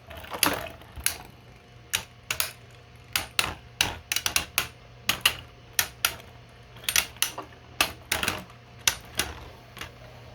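3D-printed plastic Beyblade spinning tops clashing in a stadium: a run of sharp, irregular clacks, some in quick bursts of two or three, as the tops collide and rattle against each other and the stadium wall.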